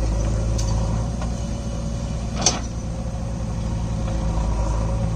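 Heavy diesel engine running at a steady speed, with a single sharp knock about halfway through.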